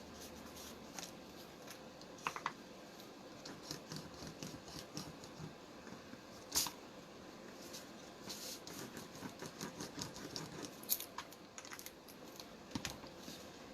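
Cardstock pieces being handled and pressed together: scattered small clicks, taps and rustles, with a sharper click about six and a half seconds in and a run of quick ticks a little later.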